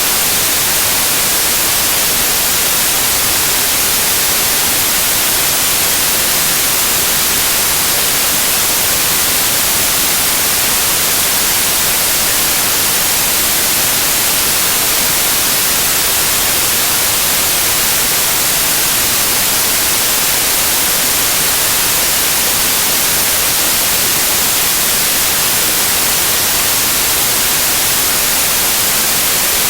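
Steady, loud white noise: an even hiss weighted toward the high end, with no change.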